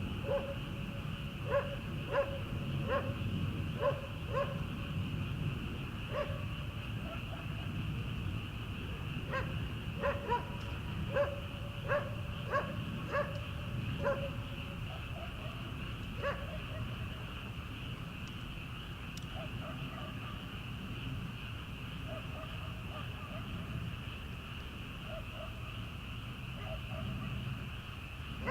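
A steady chorus of frogs calling from rice paddies at night, with a dog barking repeatedly in the distance through the first half. The barks come in runs about half a second apart, then thin out to a few fainter calls later on.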